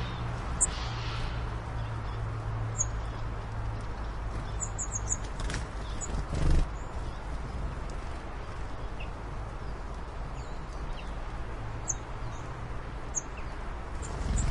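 Short, very high bird chirps come every few seconds, once as a quick run of four, over a steady low hum.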